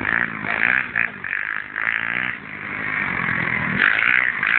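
140cc pit bike's single-cylinder four-stroke engine running and revving, its pitch rising and falling.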